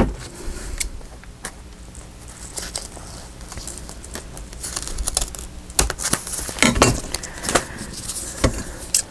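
Paper and washi cloth rustling and crinkling as they are handled, with a run of sharp scissor snips in the second half as a strip is cut.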